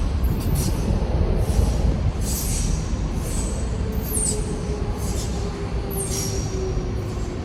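Docklands Light Railway train running into the platform: a low rumble with repeated short, high wheel squeals. A whine sets in about halfway through and slowly drops in pitch as the train slows.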